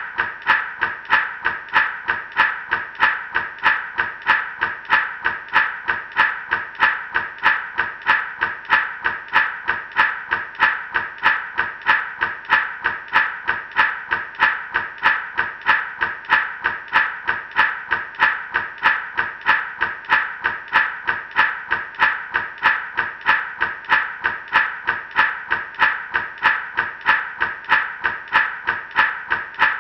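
Gourd rattle (shaman maraca) shaken in a steady, even rhythm, its seeds rattling with each shake.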